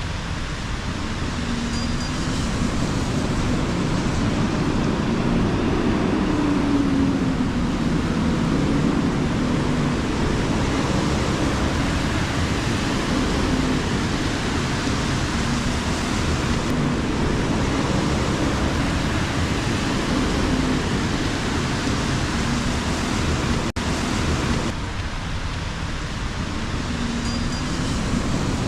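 Rainy city street ambience: a steady hiss of rain and tyres on wet road, with the low hum of traffic engines under it.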